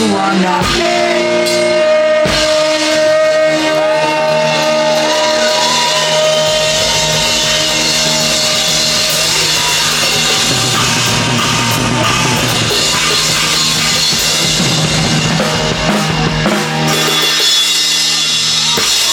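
Loud rock music: a band with drum kit and guitar playing.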